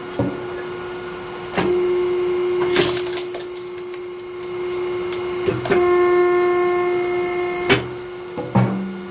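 Hydraulic log splitter's pump running with a steady hum. Twice it strains louder and whines as the ram pushes into a log. Sharp knocks and cracks come as the wood gives way.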